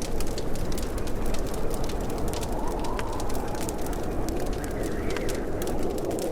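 Wood fire crackling in a fireplace: frequent sharp pops and snaps over a steady low rush of burning.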